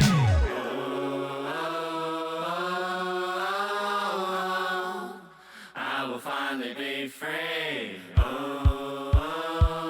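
Hip-hop backing track between songs. The beat cuts out with a falling pitch sweep, a chant-like vocal sample follows with long held notes that slide in pitch, and about eight seconds in a kick drum enters at about two beats a second.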